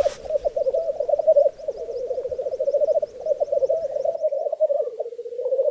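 Male black grouse rookooing at a lek: a continuous bubbling, cooing song from several birds. A fast series of thin high chirps from another bird runs over it and stops about a second before the end.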